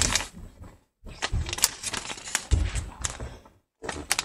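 Handling noise: a run of knocks, clicks and clatter from things being picked up and moved about, in short bursts broken by sudden dead-silent gaps.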